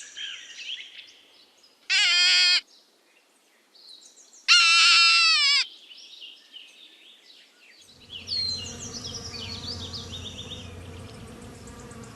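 Two short, high, wavering animal calls with bird chirps, then from about 8 seconds in a wasp's steady buzzing that continues with chirps over it.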